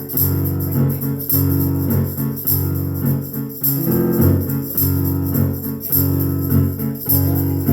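Live band playing an instrumental passage with no vocals: strummed guitar over low bass notes, with jingling percussion striking on a steady beat.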